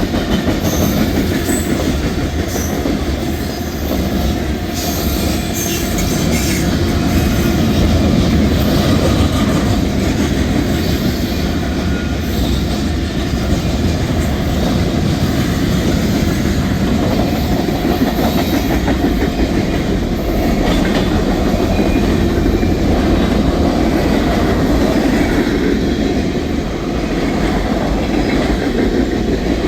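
Railroad cars rolling past at close range: a steady rumble of steel wheels on rail, with faint high wheel squeals in the first several seconds.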